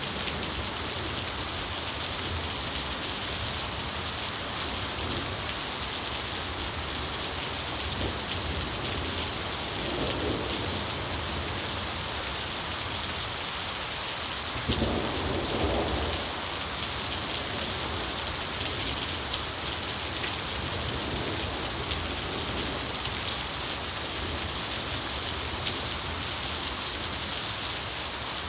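Steady rain falling, with two low rolls of thunder: a faint one about ten seconds in and a louder one about fifteen seconds in.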